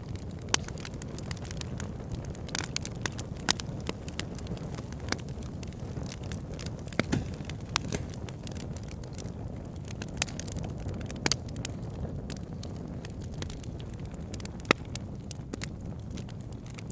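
Wood fire crackling in a fireplace: a steady low rustle of burning with irregular sharp crackles and a few louder pops.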